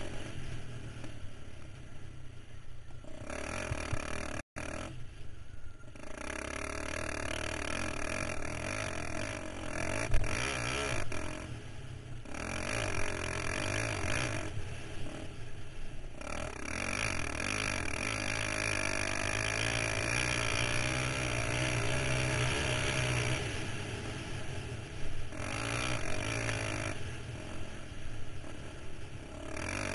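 KTM 525 XC quad's single-cylinder four-stroke engine heard on board while riding, pulling hard and then easing off the throttle several times.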